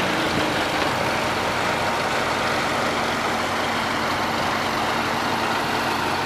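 Tractor engine running steadily at an even speed, with a constant low tone and hiss.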